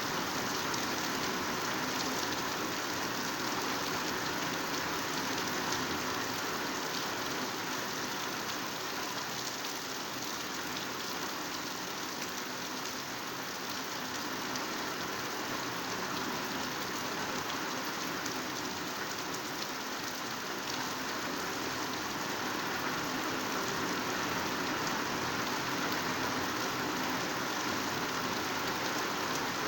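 Heavy rain pouring steadily onto foliage, a dense even hiss of drops with scattered individual drop ticks.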